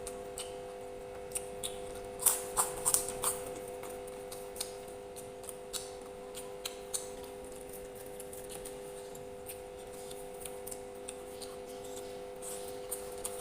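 Close-up eating sounds: chewing and wet mouth clicks, with a cluster of louder, sharper clicks about two to three seconds in. A steady low hum runs underneath.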